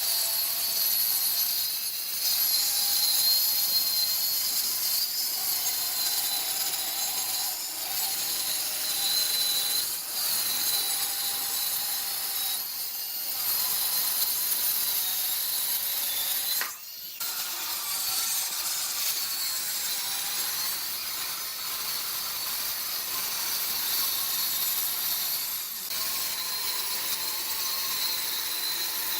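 Electric power tool working wood, running with a steady high whine, with brief breaks every few seconds and a sharp one about two-thirds of the way through.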